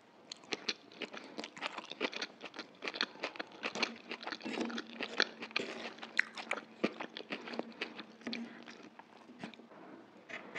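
Chewing a mouthful of chicken chow mein noodles: a quick run of short wet mouth clicks and smacks that thins out near the end.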